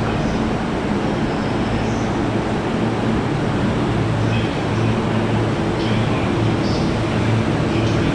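Steady rumble of a train in a railway station, with a low steady hum under it.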